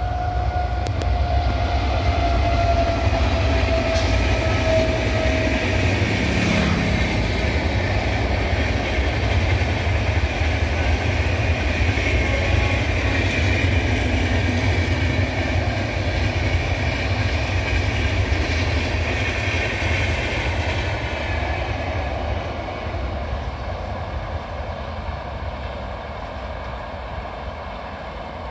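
A WAP7 electric locomotive hauling a long passenger train past, with the steady rumble and clatter of coach wheels on the rails, which fades over the last several seconds as the train draws away. A tone falling slowly in pitch runs through the first few seconds.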